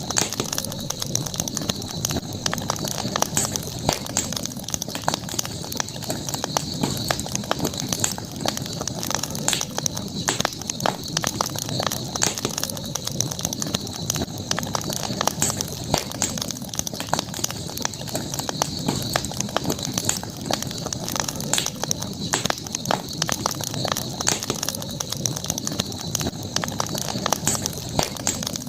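Campfire crackling: burning wood gives off many irregular sharp pops and snaps over a low rushing of flames, with a steady high-pitched hum in the background.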